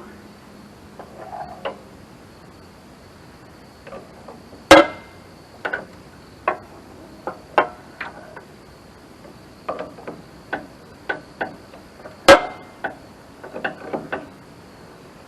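Hand tools working on metal fasteners: scattered sharp clicks and clinks, with two louder clanks about five and twelve seconds in, as nuts on the starter's cable terminals are fastened.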